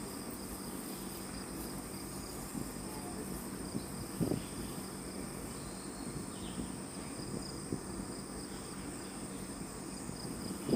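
A steady, high-pitched chorus of forest insects, with a few soft low knocks, the clearest about four seconds in.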